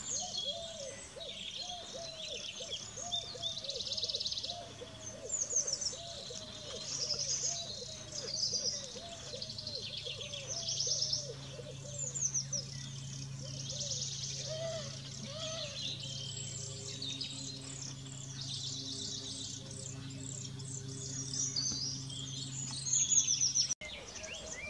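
Songbirds chirping and trilling in many quick high calls, with a lower call repeated rapidly beneath them for much of the time. A low steady hum sits underneath in the second half.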